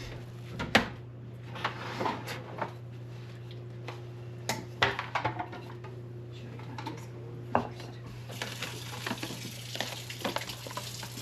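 Spoon or spatula scraping and tapping against a baking pan while thick cake batter is spread, with scattered sharp clicks and knocks over a steady low hum. A steady hiss joins about eight seconds in.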